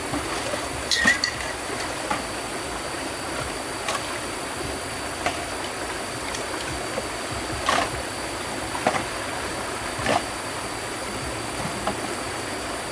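Steady rushing of river water, with scattered short knocks and clinks, about seven, from hard objects being handled or knocked together.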